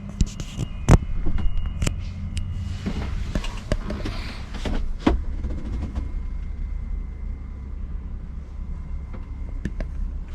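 Mercedes-Benz Actros 2548 truck's diesel engine idling with a steady low rumble. A few sharp knocks and clicks come in the first five seconds, the loudest about a second in.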